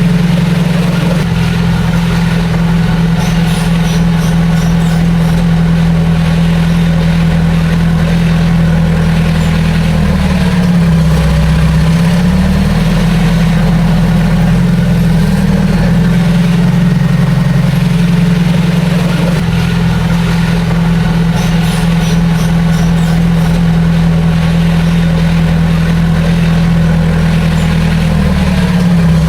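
Heavy diesel engine of earthmoving machinery running steadily, its pitch dipping briefly and recovering about ten seconds in and again near the end, as when the engine takes a load.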